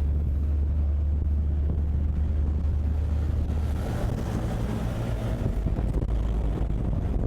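Motorcycle riding in traffic, its engine running under a steady low drone with wind noise on the microphone; the drone shifts and thins out about four seconds in.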